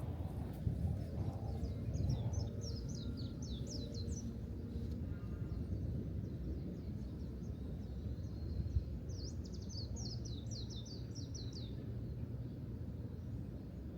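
A small songbird sings two quick phrases of high, falling chirps, the second about six seconds after the first, over a steady low rumble.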